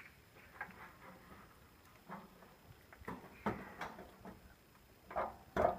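Hens moving about the coop: scattered light pecks, scratches and rustles at irregular intervals, a little louder near the end.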